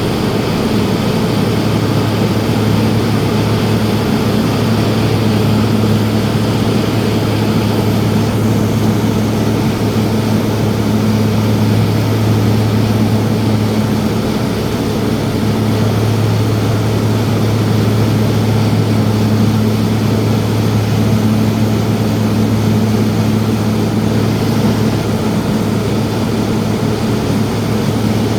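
Propeller engine of a small sightseeing airplane running steadily in cruise, heard from inside the cabin as a loud, even drone with a low hum over a rush of air and engine noise.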